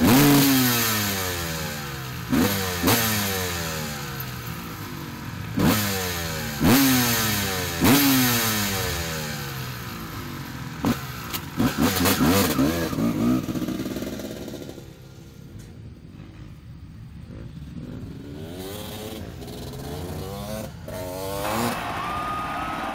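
Two-stroke 250 motocross bike engines revving hard in repeated sharp bursts, each burst's pitch falling away as the throttle comes off, about nine in the first half. The engine sound then drops quieter for several seconds before a steadier engine note returns near the end.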